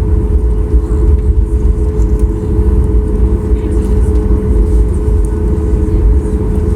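Airliner cabin noise: a steady, loud low rumble of engines and airflow with a constant hum running through it.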